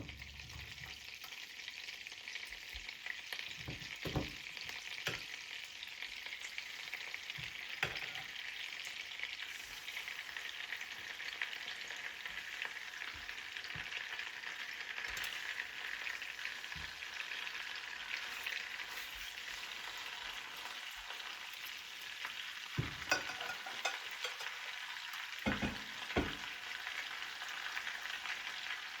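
Food sizzling in a frying pan, a steady hiss, with a few sharp knocks scattered through it, loudest in a cluster near the end.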